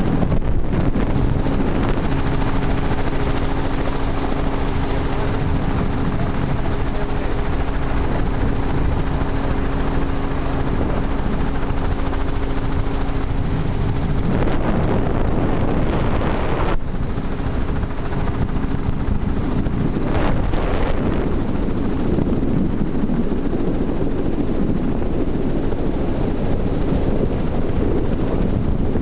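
Steady aircraft noise heard from aboard: an engine drone with a constant hum over heavy rushing noise.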